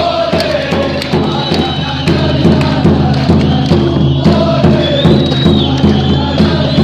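Football ultras chant: many voices singing together over a rhythmic, music-like backing with a steady bass line, starting abruptly.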